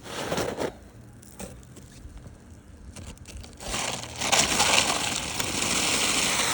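Asphalt roof shingle scraping and crinkling as it is worked loose and pulled out from under the course above. There is a short scrape at the start, then a louder, steady gritty scraping for the last three seconds.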